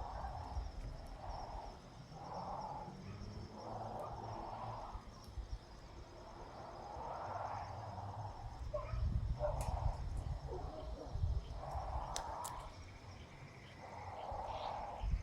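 Nestlings giving short, hoarse calls over and over at irregular intervals of about one to two seconds, over a low rumble.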